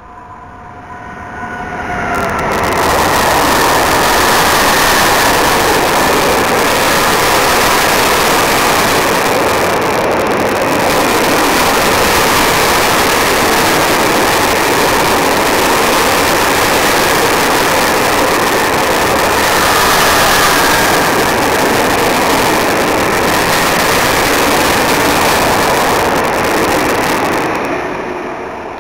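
Freight train of hopper wagons hauled by an electric locomotive passing close at speed: the loud, steady rolling of steel wheels on rail. It builds over the first two seconds, holds steady, and stops abruptly at the end.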